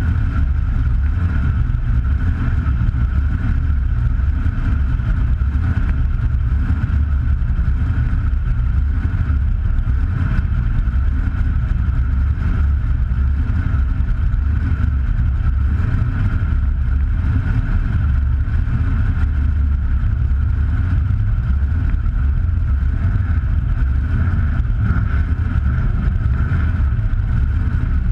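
MMR twin-turbo Ford Modular DOHC V8 drag engine running at a steady low speed, a constant low rumble with a steady higher hiss from the turbos, heard from inside the engine bay. No revving or change in pitch.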